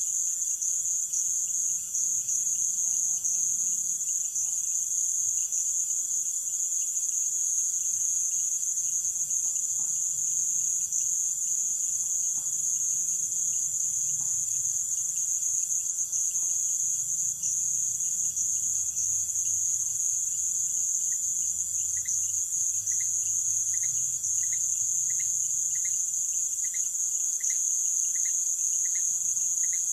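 Night-time rainforest insect chorus: a continuous, loud, high-pitched shrill drone of many insects. About two-thirds of the way through, a regular short chirp joins in, repeating about once a second.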